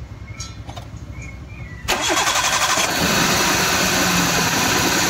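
Maruti Suzuki Wagon R's 16-valve four-cylinder petrol engine cranking on the starter for about a second, starting about two seconds in, then catching and running steadily. A loose wiring contact had been cutting the ignition spark and stopping it from starting; that contact has now been fixed. One spark plug is out of its cylinder, lying on the head with its lead attached for a spark check.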